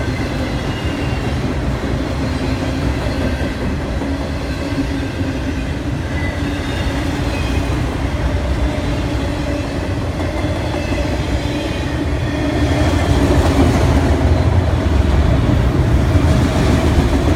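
Freight train of autorack cars rolling by, a steady rumble with clickety-clack from the wheels that grows louder about two-thirds of the way through.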